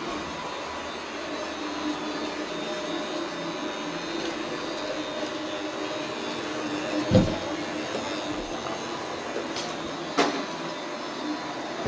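Robot vacuum cleaner running with a steady motor and brush hum, and two sharp knocks about 7 and 10 seconds in.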